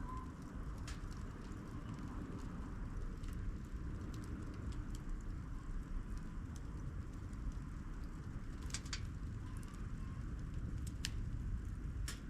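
Wood campfire with its logs stacked crib-fashion, burning with a steady low rumble and scattered sharp crackles and pops, several close together near the end.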